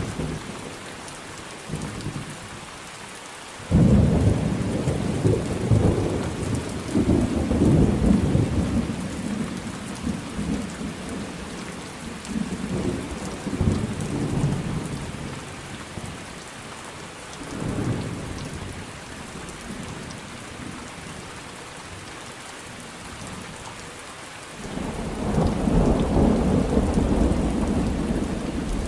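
Thunderstorm: steady rain hissing, with rolling thunder. A loud peal breaks in suddenly about four seconds in and rumbles on for several seconds, smaller rumbles follow, and another loud roll builds near the end.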